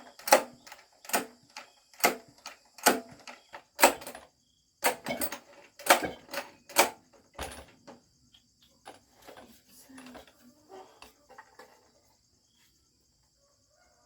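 A series of sharp knocks, about one a second, dying away into fainter scattered clicks after about eight seconds, with crickets chirping steadily.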